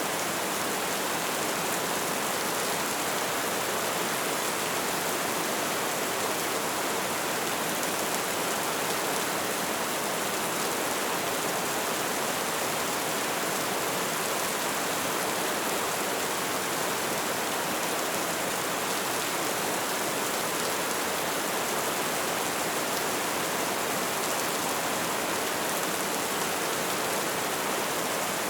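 Light rain falling steadily, an even hiss with no single drops standing out.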